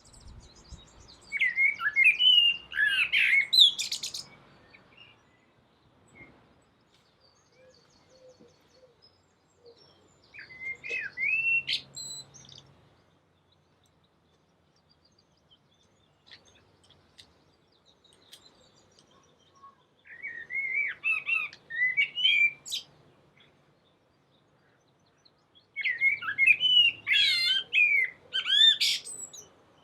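A songbird singing in four separate warbling phrases of quick rising and falling notes, each two to three seconds long, with quiet pauses between them.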